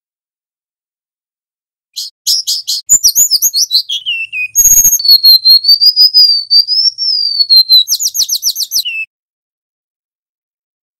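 Golden-bellied gerygone (remetuk laut) singing one phrase about two seconds in: a run of quick high chirps that fall in pitch, a long wavering whistle, then a fast trill ending on a falling note.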